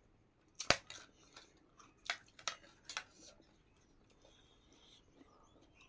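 Close-up eating sounds: sharp crunches from biting and chewing crisp raw vegetables, several in the first three seconds and the loudest less than a second in, then quieter chewing.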